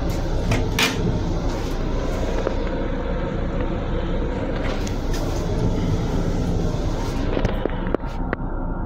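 Steady rumble and rattle of a Metro-North M7 electric railcar running, heard inside its restroom, with a few light clicks.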